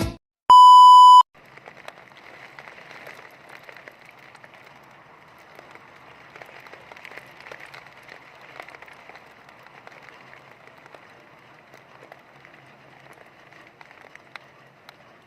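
A single loud, high electronic beep about half a second in, lasting under a second. It is followed by a steady, fairly quiet hiss of heavy rain with scattered sharper patters.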